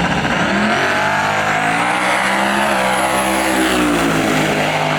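Drag-racing car accelerating hard down the strip, its engine note rising.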